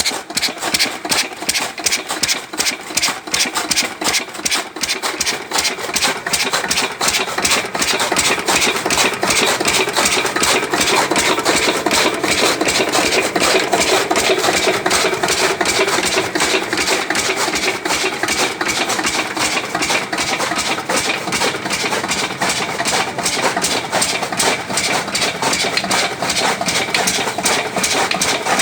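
Single-cylinder Lister-type 8 hp diesel engine running steadily with a fast, even exhaust beat, driving a belt-driven chaff cutter.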